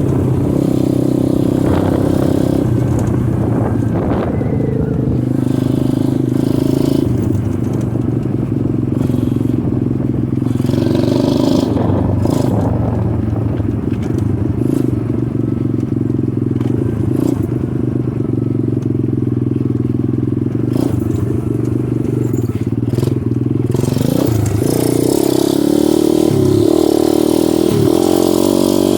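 Dirt bike engine running as the bike is ridden along a trail, its pitch rising and falling with the throttle. The revs climb and the engine gets louder in the last few seconds.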